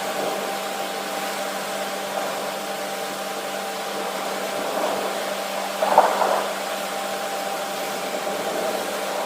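Steady rushing noise of a thunderstorm's rain and wind, with a steady hum running underneath. The noise swells briefly about six seconds in and again at the end.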